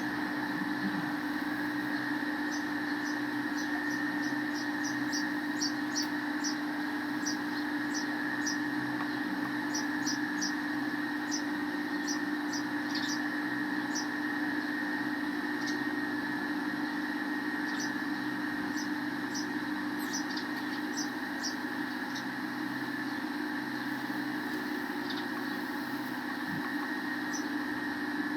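Sparrows chirping in quick runs of short, high chirps, thickest over the first half and again briefly past the middle, over a steady machine hum that is the loudest sound throughout.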